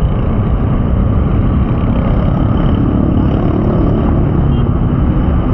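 Steady, loud road-traffic noise with a low rumble and no breaks, typical of vehicles on a city street.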